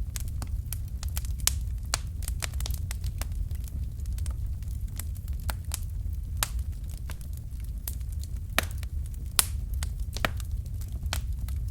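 Fireplace fire crackling: frequent irregular sharp pops and snaps over a steady low rumble, with a couple of louder snaps about two-thirds of the way through.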